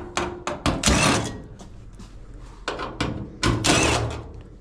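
Sheet-metal cabinet panel of a Maytag Maxima XL dryer being pulled and worked loose. There is a series of knocks and clunks, with short scraping bursts about a second in and again near the end.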